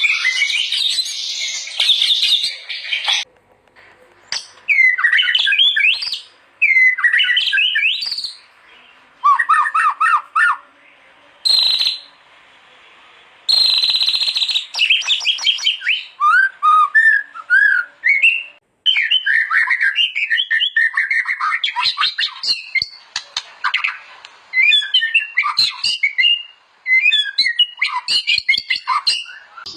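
White-rumped shama (murai batu) singing: a long run of varied, fast whistled phrases and chattering notes, given in bursts with short pauses between them.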